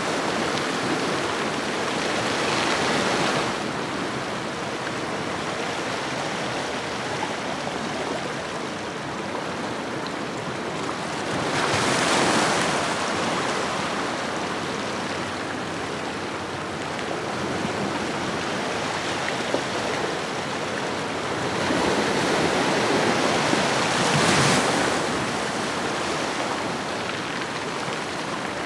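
Ocean waves washing on a shoreline: a steady surf wash that swells louder about every ten seconds as each wave breaks, peaking near the start, around the middle and near the end.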